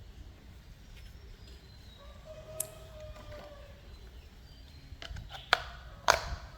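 A few sharp clicks or knocks over a low background hum, the two loudest close together near the end.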